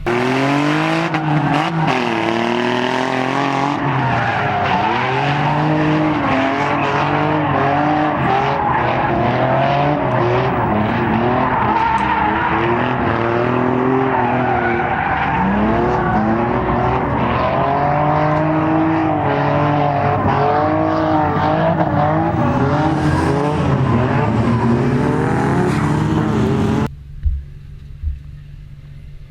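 Drift car's engine revving hard and falling back again and again through a drift run, with tire squeal over it. The sound cuts off suddenly about 27 seconds in, leaving a much quieter background with a couple of short knocks.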